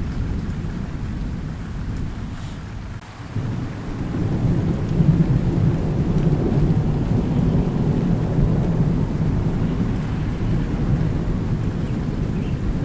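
Thunder rumbling with steady rain. The rumble dips briefly about three seconds in, then swells louder and rolls on.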